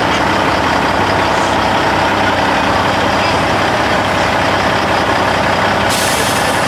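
Heavy diesel engine of a semi truck running steadily. A sudden high hiss of air starts near the end.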